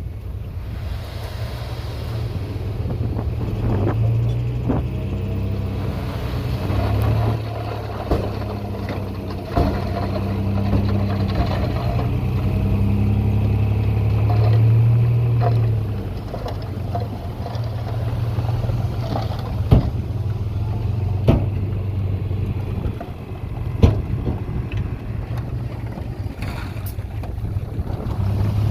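Heavy diesel earthmoving machinery running under load with a steady low engine drone, swelling and easing off about halfway through. A few sharp metallic clanks stand out in the second half.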